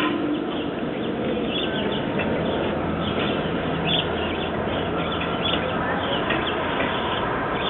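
A dense, layered soundscape: short bird chirps repeating high over a thick, even rush of noise, with a low steady hum underneath through the middle.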